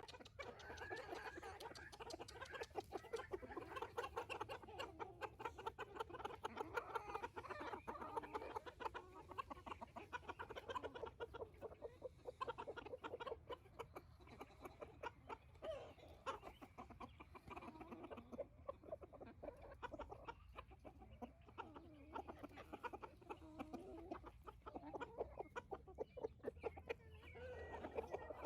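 Several chickens clucking continuously, with many small clicks and taps among the calls.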